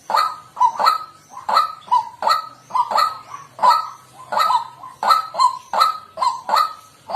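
White-breasted waterhen calling: a steady run of short, repeated "kwak" notes, about two or three a second.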